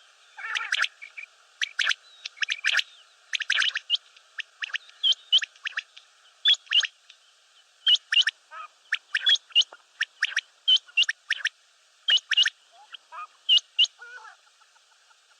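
Common quail calling over and over in short, sharp notes that come in quick clusters of two or three, with a steady hiss behind them.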